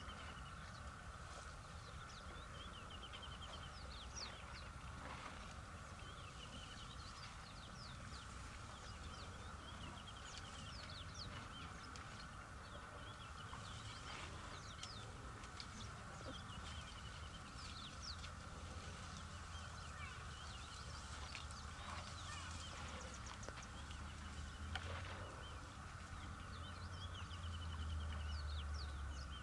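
Birds chirping and trilling in many short calls throughout, over a steady high hum and a low rumble that swells near the end.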